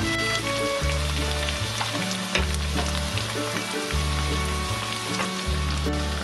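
Green onion and sliced garlic sizzling in hot oil in a pan as they are stir-fried with a spatula, with a few light clicks from the spatula.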